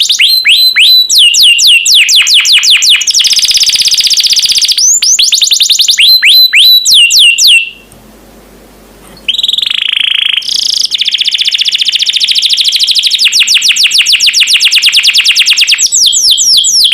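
Domestic canary singing a long, loud song of rapid rolls: fast series of repeated downward-sweeping notes and quick trills. The song breaks off for about a second and a half midway, then picks up again with a long rapid trill.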